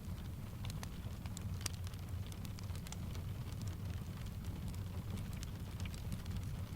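Layered ambience of steady rain with a low rumble underneath, mixed with the scattered crackles and pops of a wood fire burning in a fireplace.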